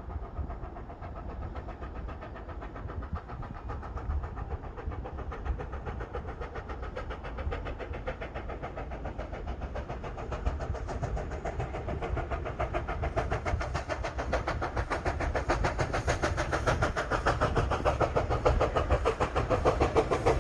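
Steam locomotive hauling a train as it approaches, growing steadily louder, with a rapid, regular pulsing beat.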